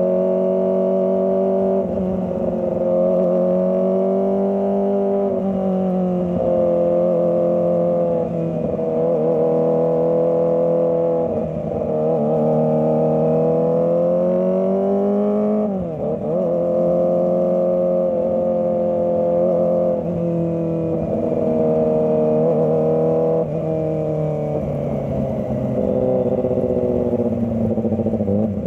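Kawasaki ZX25R's 250 cc inline-four engine running under way at steady mid revs, its pitch easing up and down with the throttle, with a quick drop and rise in pitch about sixteen seconds in.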